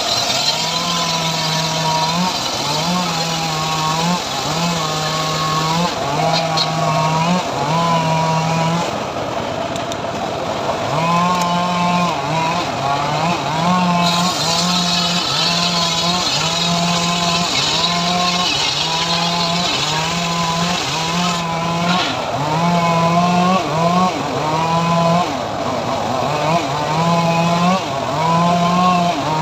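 Engine-driven homemade sawmill saw (gergaji srekel) cutting sengon timber. Its engine note runs steadily, then dips again and again, roughly once a second, as the cut loads it.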